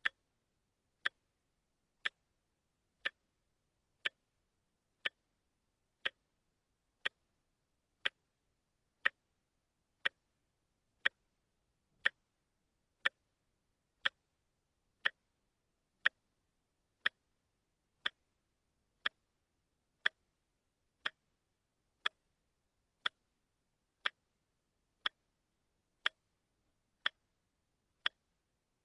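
A watch ticking steadily, one sharp, even tick every second, with near silence between the ticks.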